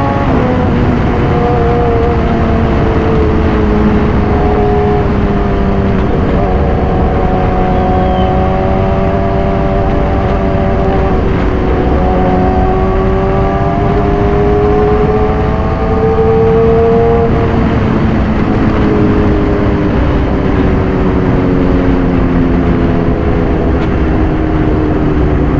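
2014 Yamaha YZF-R6's inline-four engine, breathing through an SC-Project full exhaust, running steadily under way. Its note sags slowly, picks up about two-thirds through, then eases off again.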